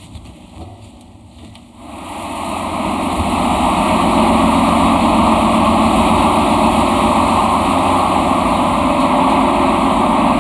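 Ship's engine-room machinery running steadily. It comes up over a couple of seconds near the start and then holds as a loud, even, dense drone.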